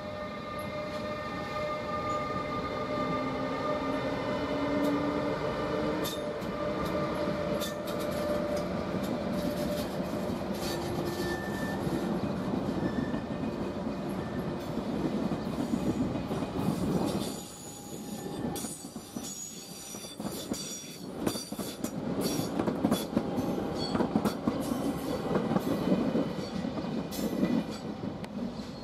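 ÖBB class 1116 Taurus electric locomotive pulling a Railjet, its electric drive giving a whine that rises in pitch as the train gathers speed. After that the Railjet coaches roll past, with wheels clicking over rail joints and points and some wheel squeal.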